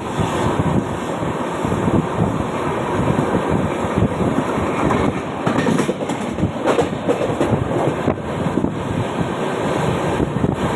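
Mumbai suburban local train running on its tracks: a steady rumble and clatter of wheels on rails.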